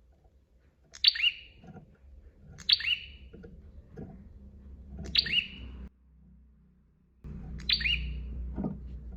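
Prenjak (prinia) calling: four sharp, loud calls one to two and a half seconds apart, each a quick pair of falling notes, over a low background rumble.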